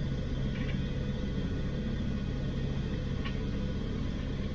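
Diesel pickup truck engine running with a steady low hum, heard from inside the cab, with a couple of faint short squeaks or clicks.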